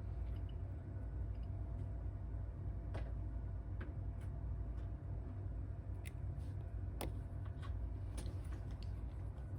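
About five light, scattered clicks of small tools and phone parts being handled, over a steady low hum.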